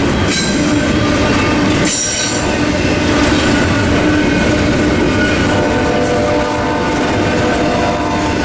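Double-stack intermodal freight cars rolling past at a level crossing, steel wheels clattering over the rails. Brief high-pitched wheel squeals come just after the start and again about two seconds in. A steady ringing tone rides over the rumble in the second half.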